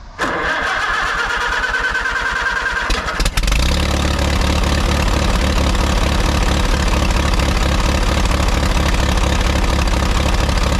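Allis-Chalmers WD45 tractor's four-cylinder gasoline engine being cranked by its electric starter, which whines over fast, even compression pulses. After about three seconds the engine catches and settles into a steady, loud run.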